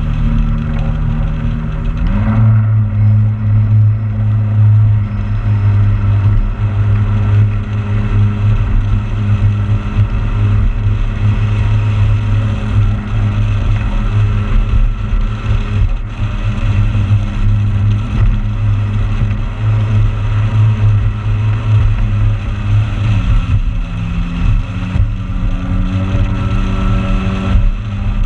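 Motorboat engine running steadily; it speeds up about two seconds in and eases back a little near the end.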